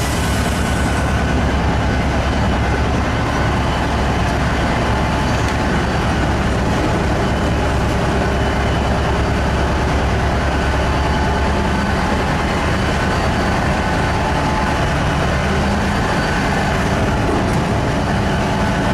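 Large diesel engine of a Komatsu truck running steadily with a deep, even drone. A single sharp click comes right at the start.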